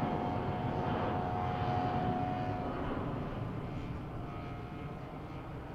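Gas engine of a giant-scale YAK-54 radio-controlled aerobatic plane running in flight. It holds a steady drone for the first couple of seconds, then fades gradually as the plane moves away.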